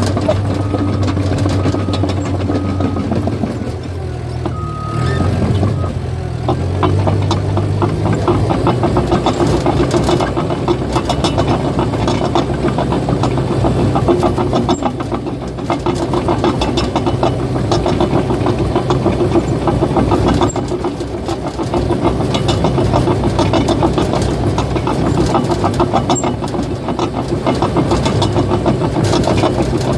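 Caterpillar bulldozer's diesel engine running steadily, picking up revs a few seconds in. From there on it carries a rapid, continuous clatter from the steel tracks as the dozer moves.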